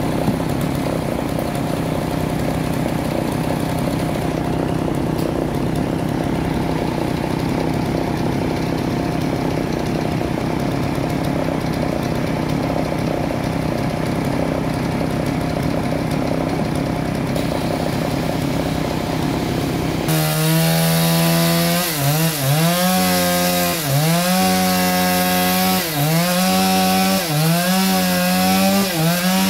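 Band sawmill running steadily, then about two-thirds of the way through the blade bites into a trembesi log and the sound turns louder and pitched, the drive sagging under the cutting load and recovering every second or two.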